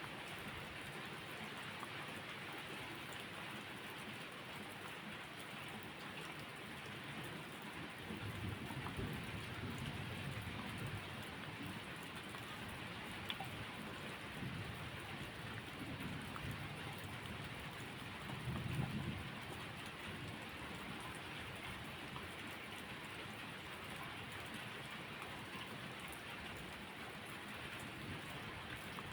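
Steady rainfall, with low rumbles of thunder swelling about three times in the middle.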